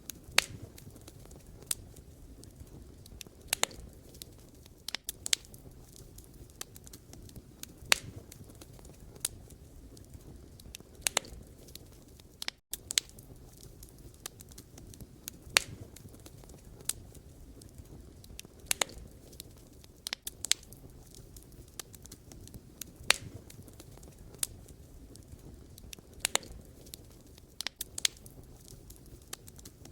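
Wood campfire burning, with sharp, irregular pops and crackles from the logs every second or two over the low, steady rumble of the flames. There is a brief break in the sound about midway.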